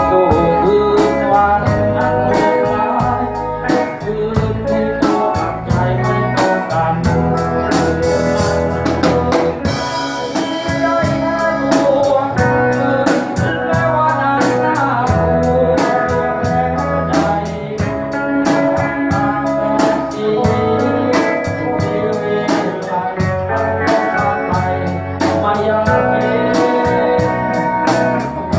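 Live band music: a keyboard playing organ sounds over guitar, bass and drums, with a steady beat.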